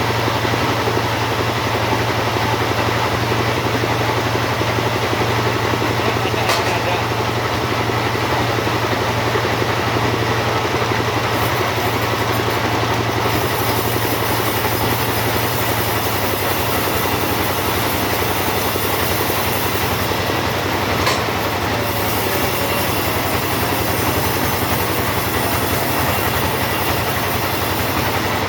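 Two-stroke chainsaw running steadily at high speed, sawing through a teak log to cut door lumber.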